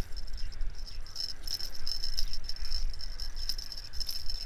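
Insects, crickets or grasshoppers, stridulating in a continuous high-pitched buzzing chirr that pulses slightly, over a low rumble of wind on the microphone.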